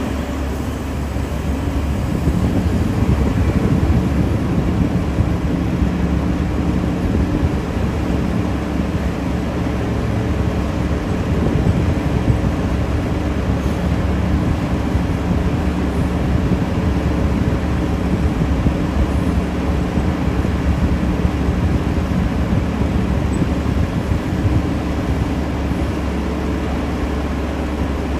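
Heavy diesel mining machinery running: a steady, loud, low engine drone from a large excavator and haul truck at work, its loudness swelling a little now and then.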